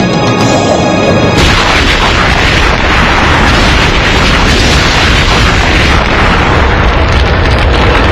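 Music with a held chord, then about a second and a half in a long, loud explosion rumble takes over as the pyramid blows up.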